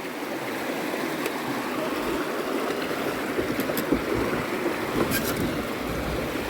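Steady rush of river water running over rocks in a shallow stretch, heard from a boat, with a few faint knocks.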